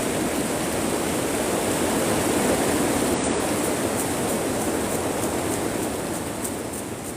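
Heavy rain pouring onto the roof of a high-tunnel greenhouse, heard from inside as a loud, dense, steady hiss that begins to ease off in the last second or two.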